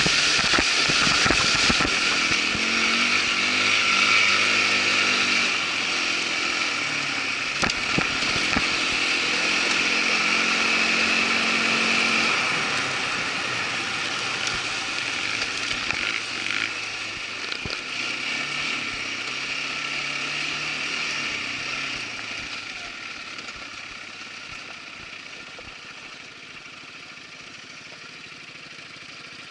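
Irbis ATV 200 quad bike's engine running on a trail ride, its pitch rising and falling with the throttle, with a few sharp knocks in the first seconds. It grows steadily quieter over the last several seconds.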